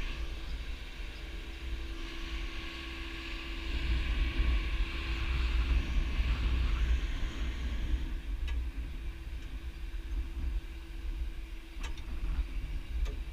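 Engine of the heavy lifting machine running steadily, swelling for a few seconds in the middle, with wind rumbling on the microphone and a few faint clicks near the end.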